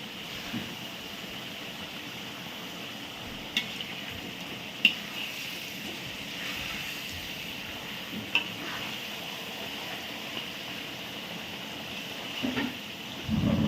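Chicken frying in oil and masala in a large pan, a steady sizzle, with a metal ladle stirring it and clinking sharply against the pan a few times. A louder scrape near the end.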